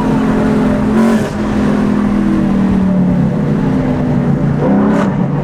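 A 2019 Ford Mustang GT's 5.0-litre V8 running through a freshly fitted Flowmaster Outlaw catback exhaust with an H-pipe, giving a loud, steady, deep exhaust note. There is a brief change in the note about a second in.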